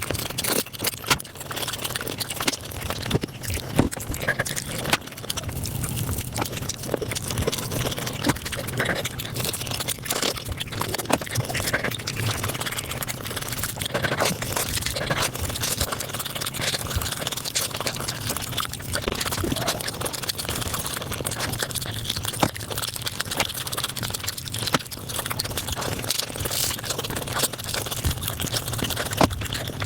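Close-miked eating sounds sped up about five times: a dense, unbroken stream of chewing, smacking and crunching clicks with scraping.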